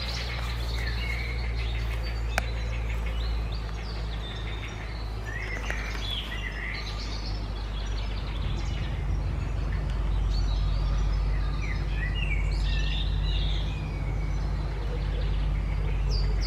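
Many short bird calls and chirps over a steady low rumble, with one sharp click about two and a half seconds in.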